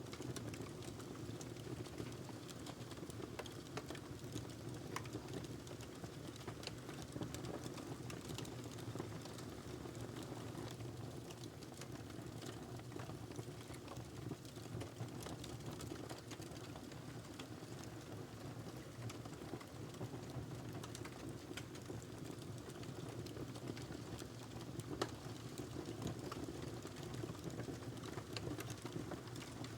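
Wood fire burning in a fireplace: a steady low rush of flames with irregular small crackles and pops, one louder pop about 25 seconds in.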